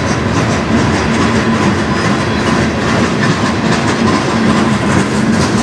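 Freight train cars rolling past close by: covered hoppers and a boxcar on steel wheels, with a steady rumble and the clickety-clack of wheels over the rail joints.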